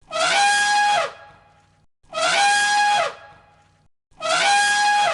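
Elephant trumpeting: the same brassy call, about a second long, repeated three times about two seconds apart. Each call rises at the start, holds a steady pitch, then drops off.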